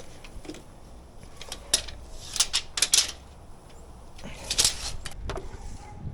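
Short scrapes and clicks of handling work noise, coming irregularly about five or six times.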